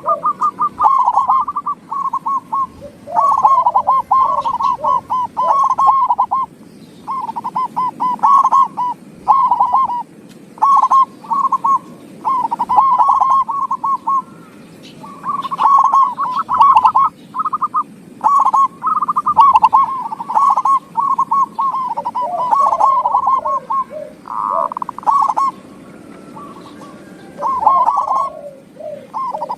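Zebra dove (perkutut) song: one rolling, stuttering coo phrase after another, each about a second long with short gaps between, played as a lure recording to get other perkutut to answer.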